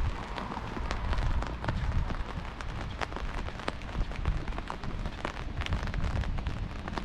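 Heavy rain falling on the street: a steady hiss dotted with many sharp drops splashing close by.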